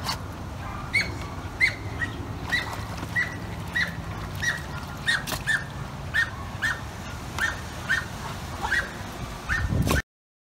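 A bird calling over and over, short sharp chirps about one and a half a second, each with a quick downward flick, over a steady low background rumble.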